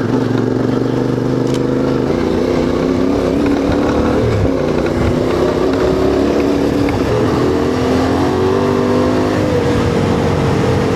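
CFMoto 450MT adventure motorcycle's parallel-twin engine running under way off-road, its note dropping and climbing a few times as the throttle changes.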